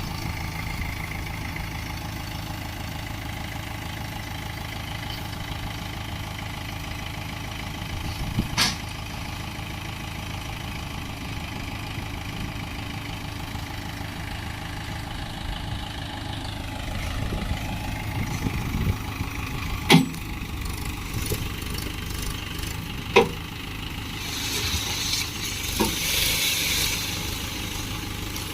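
Swaraj 843 XM diesel tractor engine idling steadily, its pitch shifting briefly partway through. Three sharp clicks or knocks stand out over the running engine, and a hiss rises near the end.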